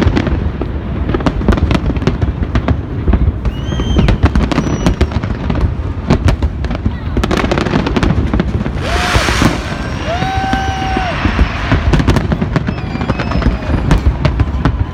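A fireworks display going off: a dense, continuous run of bangs and sharp crackles, with a hissing burst about nine seconds in.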